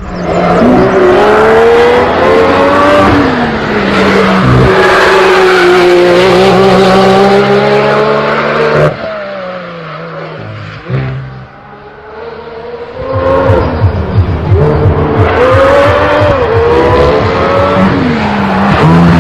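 Supercar engines revving hard and accelerating, their pitch climbing and dropping with each rev and gear change. Midway the sound falls quieter for a few seconds, then a car is loud again from about two thirds in.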